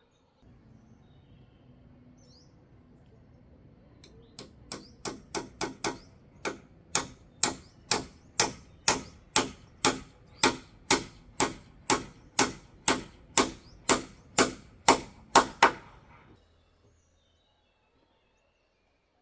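A hammer striking repeatedly while the house frame is being built, about two blows a second. A few blows come about four seconds in, then after a short pause a steady run of some twenty strikes stops about sixteen seconds in.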